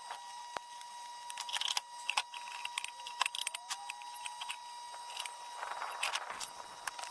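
Scattered light metallic clinks and rattles, over a faint steady high tone.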